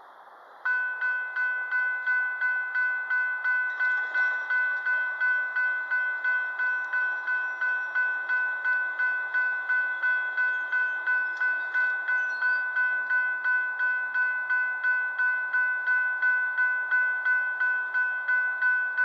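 Railroad grade-crossing warning bell that starts ringing suddenly, then strikes steadily at about two to three rings a second. The crossing signal has been activated by an approaching train.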